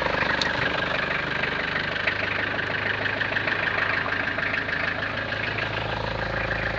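Toyota Land Cruiser LJ73's 2.4-litre four-cylinder diesel idling cold at about −12 °C, shortly after starting, with a steady, even diesel clatter.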